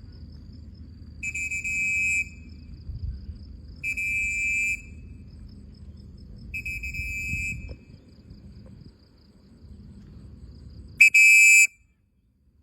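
Buzzer-like electronic beeps, each lasting just under a second, four times, the last the loudest. A faint high chirring and a low rumble run underneath until the sound cuts off after the last beep.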